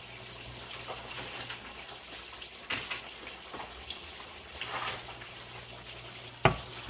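Yam frying in hot oil: a steady sizzle with a few faint pops. A sharp knock about six and a half seconds in.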